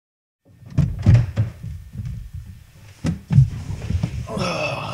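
Several dull thunks, the loudest about a second in and another about three seconds in, over a low rumble.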